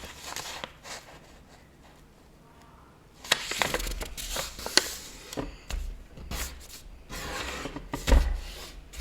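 A sheet of paper being folded and creased by hand: crinkling rustles and fingers rubbing hard along the fold. Quieter for a second or two early on, then denser scraping and clicks, with a few dull knocks.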